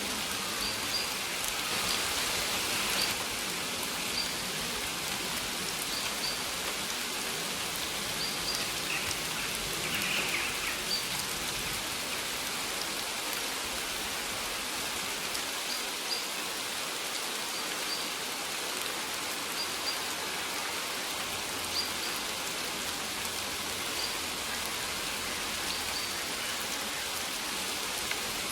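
Steady rain falling, with a bird's short high chirps repeating about every two seconds over it.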